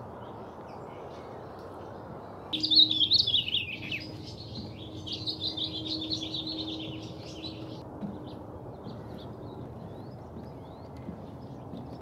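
A songbird singing a rapid, chattering song for about five seconds, starting a couple of seconds in and stopping abruptly, followed by a few faint chirps over a steady background hiss.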